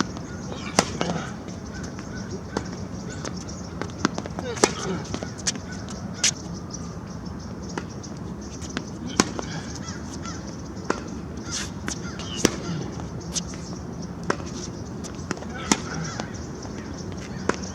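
Tennis balls being struck and bouncing during a baseline rally, a sharp knock about every second, with short wavering calls in between.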